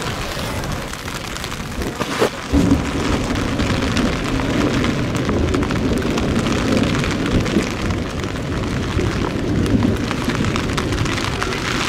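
Heavy rain in a thunderstorm, with a sharp crack a little over two seconds in followed by a long low rumble of thunder.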